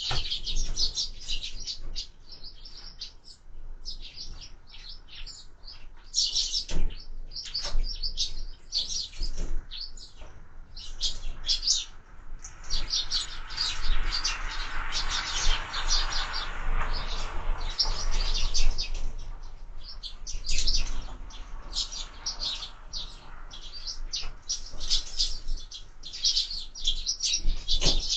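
Sparrows chirping, many short high chirps overlapping in quick runs. In the middle a broader rushing noise swells and fades beneath them.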